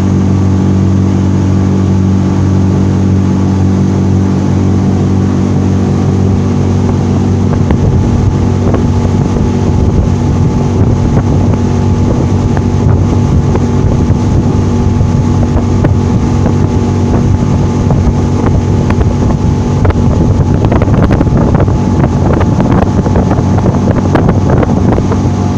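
Suzuki DF15A two-cylinder four-stroke outboard motor running at steady revs while the boat is under way. From about eight seconds in, rough wind buffeting on the microphone and rushing water mix in and partly cover the engine tone, growing choppier near the end.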